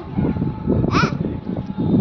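Indistinct voices, with a short high-pitched call about a second in, over a faint steady hum.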